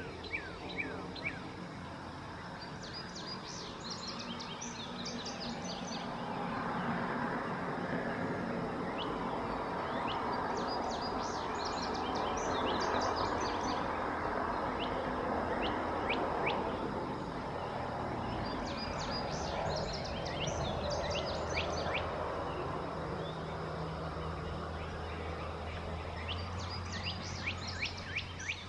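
A songbird singing the same song over and over: a quick run of high chirping notes lasting a few seconds, repeated about every eight seconds. Under it is a steady outdoor rumble that grows louder in the middle.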